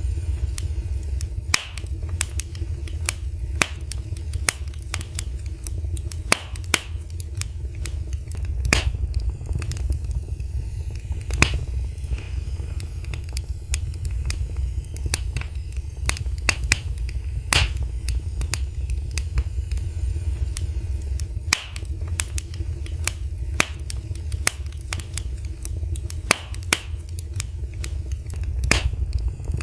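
Wood fire in a fireplace crackling: irregular sharp pops and snaps, several a second at the busiest, over a steady low rumble.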